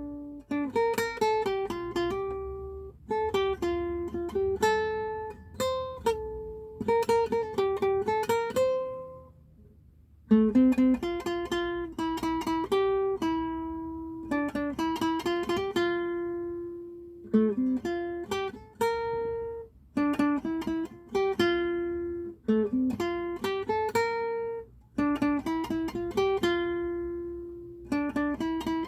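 Solo acoustic guitar playing a slow melody with plucked notes and chords, pausing briefly about nine seconds in before resuming.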